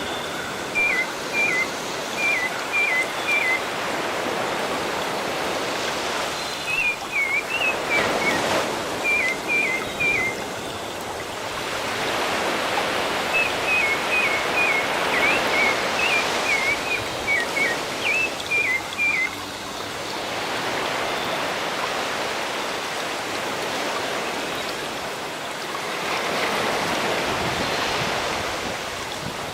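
Sea waves washing in a steady rush that swells and eases, with a small bird calling in three runs of short, high, quickly repeated chirps in the first two-thirds.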